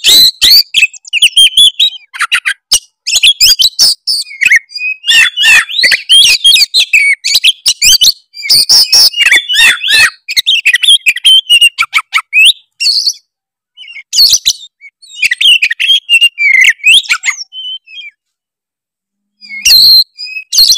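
Oriental magpie-robin (kacer) singing a loud, fast, varied song in the 'tretes' style, packed with mimicked notes: rapid chirps, whistled sweeps and clicks in phrases, with a few short pauses and a longer silent gap near the end.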